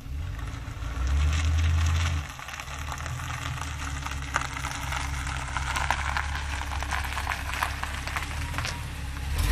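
1981 Corvette's 350 V8 running with no mufflers: a low, open exhaust rumble that swells about a second in, drops back after about two seconds, then holds steady, with crackling over the top.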